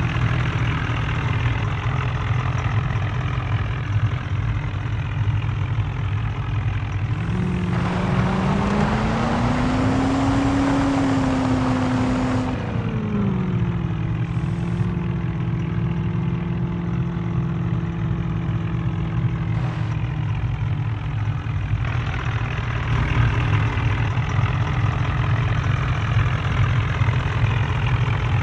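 Tractor diesel engine running steadily, revved up for about five seconds around the middle and then settling back to a lower, even note.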